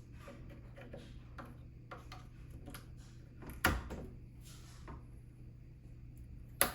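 PC parts being handled and pressed together on a table: scattered small clicks and taps, with two sharp knocks, one about halfway through and one near the end.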